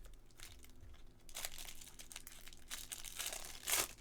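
Baseball card pack wrapper being torn open and crinkled by hand, an irregular papery crackle with the loudest tear near the end.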